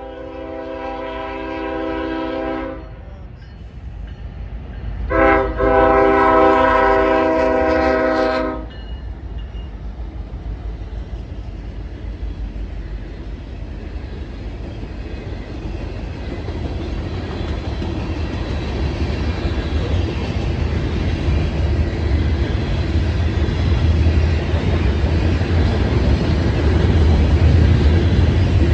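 Norfolk Southern freight locomotive's air horn sounding for a grade crossing: one long blast ending a few seconds in and a second, louder long blast, then the rumble of the locomotive and freight cars passing, growing steadily louder.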